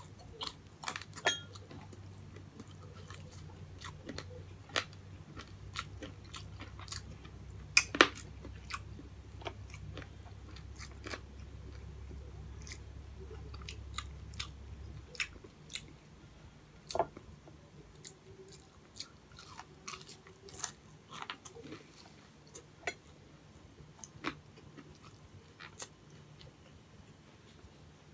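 Close-up chewing and biting of breaded fried pork chop, with irregular crisp clicks and crunches from the mouth; the loudest bite comes about 8 seconds in.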